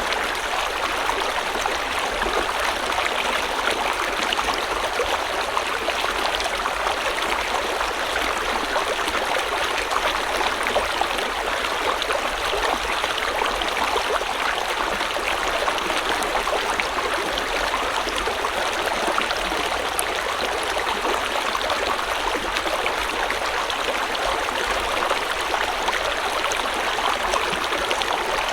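River or stream water flowing and splashing in a steady, even rush.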